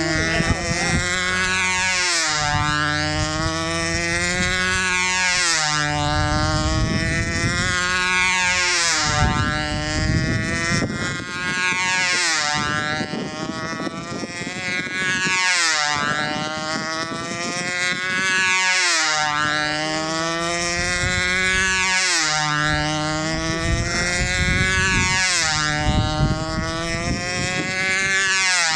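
Mamiya 29 model glow engine on a control-line speed plane running at full throttle, its high whine rising and falling in pitch about every three and a half seconds as the plane circles past on the lines.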